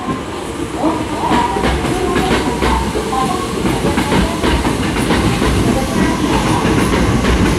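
Sanyo Electric Railway 3000-series electric train rolling past on a shunting move: a steady rumble, with the wheels clacking over rail joints and pointwork several times a second.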